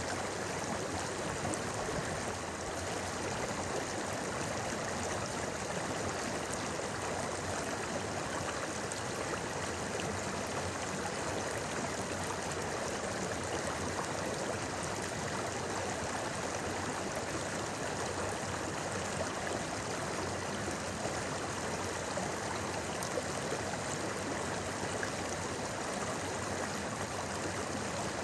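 A river babbling over stones, a steady rush of flowing water with small gurgles.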